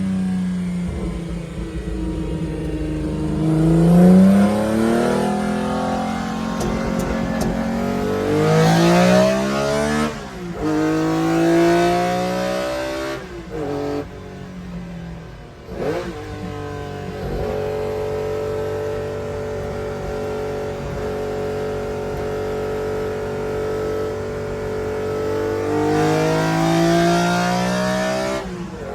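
BMW M1 race car's straight-six engine accelerating hard, its pitch climbing and then dropping sharply at each of several quick gear changes. It then holds a steady pitch for several seconds before climbing again and dropping near the end.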